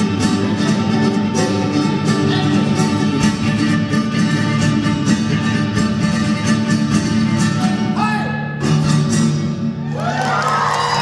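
Live band music with guitar and fiddle playing, ending near the end; a crowd then starts cheering and shouting.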